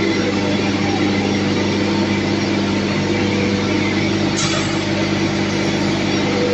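Animal feed hammer mill running at steady speed, a loud continuous grinding drone over a constant motor hum, with a brief click a little past four seconds in.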